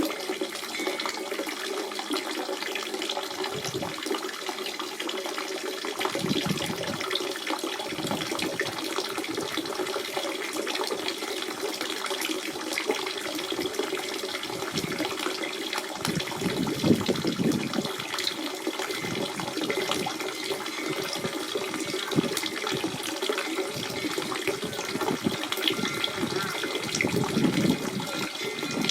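Natural spring water running and splashing in a steady flow, with a few louder gurgling swells.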